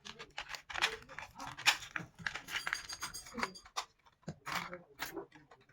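Irregular clicks, taps and metallic clinking of small metal parts and tools being handled, with a brief ringing clink about halfway through.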